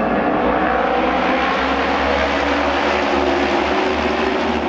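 Several auto race motorcycles with 600 cc twin-cylinder engines running together at racing speed. Their overlapping engine notes make a steady, loud drone.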